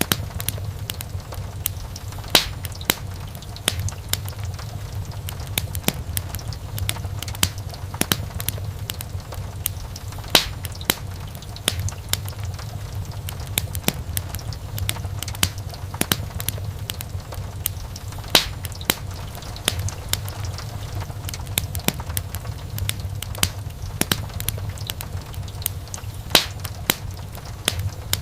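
Wood fire burning in a fireplace: a steady low rumble of flames with frequent irregular crackles and sharp pops, a few pops standing out louder than the rest.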